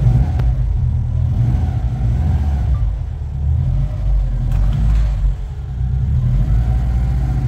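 Subaru WRX's flat-four boxer engine idling with a steady low rumble, with a few faint clicks.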